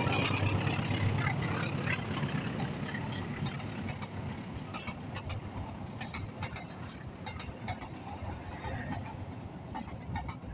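A passenger train running past on the tracks, its low rumble slowly fading, with scattered clicks of the wheels over rail joints. Road traffic runs underneath.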